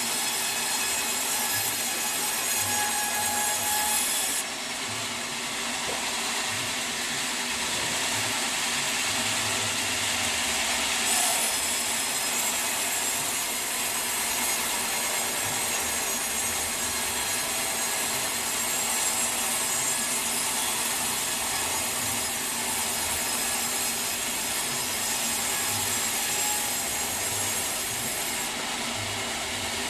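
Sawmill saw cutting through a teak log: a steady, continuous sawing noise with a machine hum. It shifts slightly about four seconds in and again near the end.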